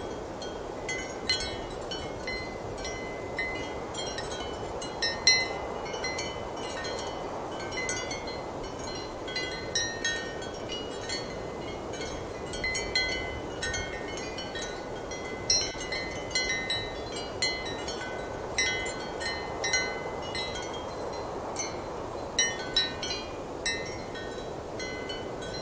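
Ceramic wind chimes clinking irregularly, with short high-pitched tones, over a steady strong wind.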